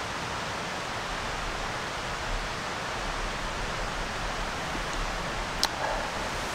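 Steady rushing noise, with a single sharp click about five and a half seconds in.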